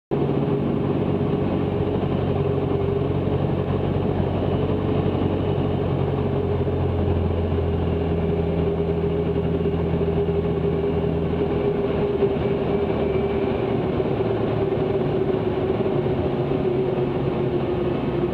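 Cessna 162 Skycatcher's Continental O-200 four-cylinder engine and propeller droning steadily in flight, a constant hum with a steady mid-pitched tone over it.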